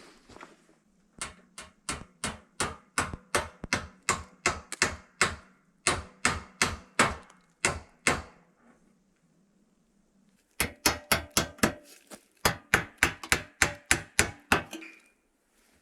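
Hammer striking rapidly, about three or four blows a second, in two runs with a pause of about two seconds between them.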